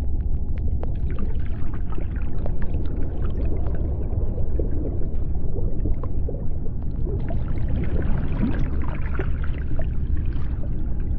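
Underwater sea-bottom ambience: a deep, steady rumble with dense crackling and scattered clicks over it, and a faint steady hum.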